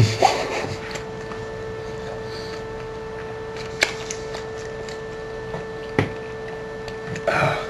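A man chewing a mouthful of cheese-and-bacon toast: a few wet mouth sounds and two sharp clicks about four and six seconds in, over a steady electrical hum.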